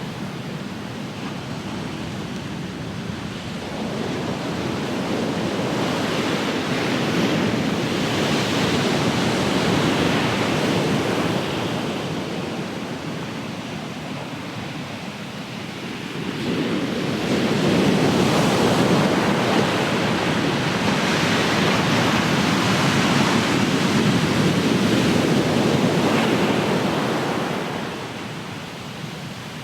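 Ocean surf: waves break and wash up the shore twice, a rush of water that swells a few seconds in and fades, then rises suddenly again about halfway through and ebbs away near the end.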